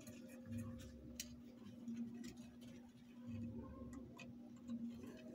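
Faint, scattered small clicks and taps of hand work on a small circuit being soldered, over a steady low electrical hum.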